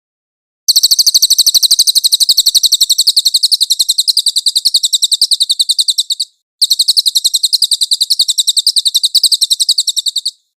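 A songbird masteran recording: a very high, rolling trill of rapid, evenly repeated notes, more than ten a second, sung in long unbroken runs. The first run lasts about five and a half seconds, then breaks off briefly before a second run of nearly four seconds.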